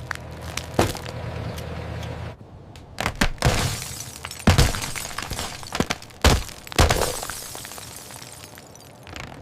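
Crash sound effects: glass breaking and sharp cracking hits, several in a row, with crunching hiss after them. A steady low engine hum runs under the first couple of seconds.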